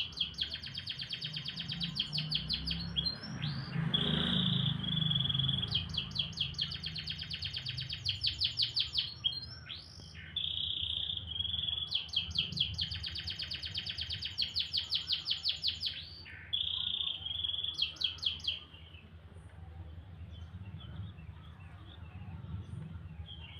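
Domestic canary singing: long phrases of rapid trills alternating with held whistled notes, stopping about three-quarters of the way through.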